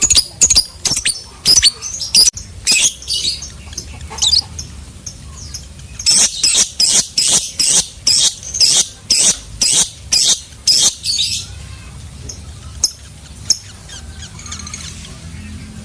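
Lovebird calling in rapid series of shrill, sharp chirps, with a dense run from about six to eleven seconds in and sparser calls after.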